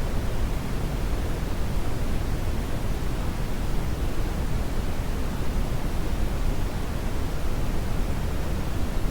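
Continuous brown noise: a steady, even rush heaviest in the low end, with no changes or events.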